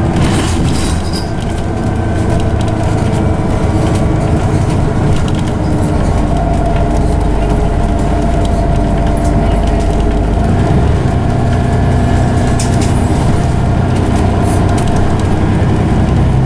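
Scania OmniCity bus heard from inside, its engine running under way with the whine of its loud ZF automatic gearbox. A steady whining tone holds from about six seconds in to near the end, over scattered clicks and rattles.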